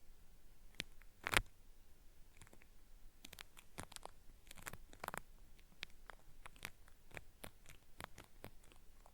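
Cotton swab rubbed against the ear of a binaural microphone in irregular crackling strokes, an ear-cleaning sound meant to mimic earwax being peeled away. One louder crackle comes about a second and a half in.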